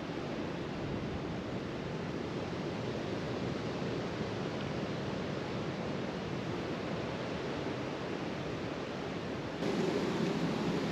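Wind blowing through bare winter trees, a steady rushing hiss that grows a little louder near the end.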